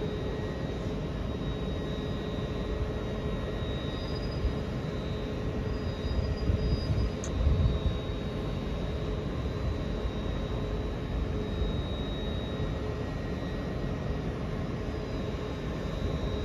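Hitachi Class 802 bi-mode train standing at a platform, its onboard equipment running as a steady hum of several held whining tones over a low rumble. The rumble swells briefly about seven seconds in.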